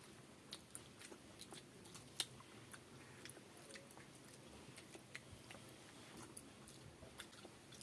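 A person chewing a mouthful of rice and soft curried food, with faint wet mouth clicks and smacks scattered throughout and one sharper click about two seconds in.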